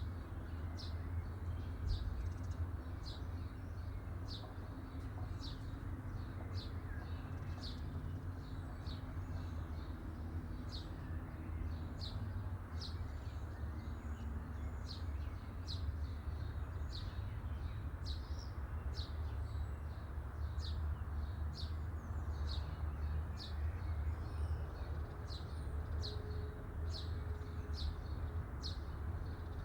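A bird chirping over and over, short sharp chirps about twice a second, over a steady low rumble.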